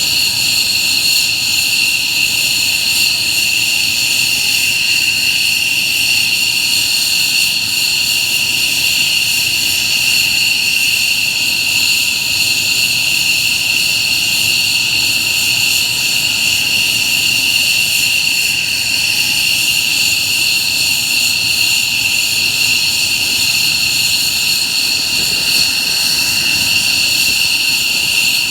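F-15J fighters' F100 turbofan engines running at idle: a steady, loud, high-pitched whine of several tones over a low rumble, holding level throughout.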